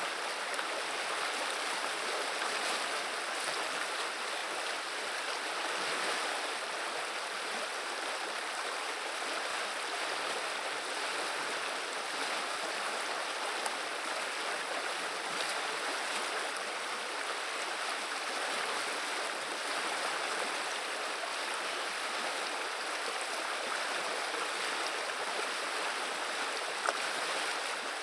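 River water running in a steady, even rush and babble, with one small click about a second before the end.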